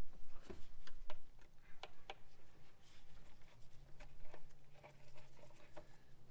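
Scattered light clicks and taps of hands working on plastic and metal parts in a truck's engine bay, over a faint steady low hum.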